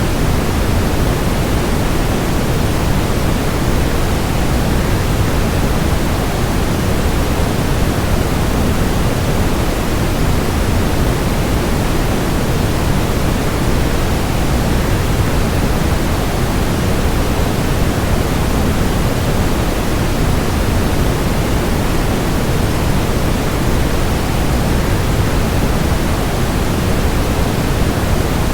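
Waterfall: a steady, unbroken rush of falling water, heaviest in the low end, used as sleep white noise.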